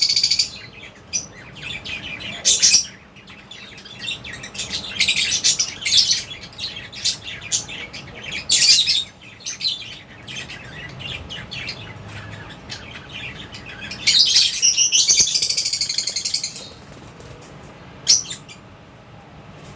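A flock of Fisher's and albino lovebirds chirping in short, high-pitched bursts, with a longer run of rapid chatter about fourteen seconds in.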